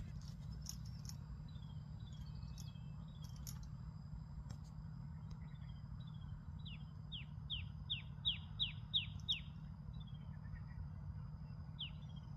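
A bird singing: short, high notes that sweep downward, a few faint ones at first, then a quick run of about nine louder ones at roughly three a second in the middle, and one more near the end, over a steady low rumble.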